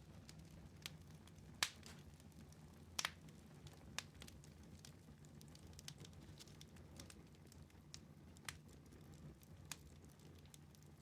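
Wood fire crackling in a fireplace: sharp, irregular pops and snaps over a faint low background, the loudest snaps about one and a half and three seconds in.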